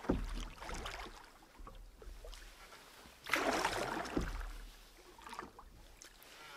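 Water splashing and swishing around a canoe moving through shallow, rocky river water, in two swells about three seconds apart.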